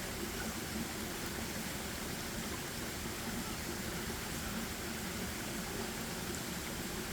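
Steady hiss of water in the open, an even rushing with no separate splashes or drops standing out.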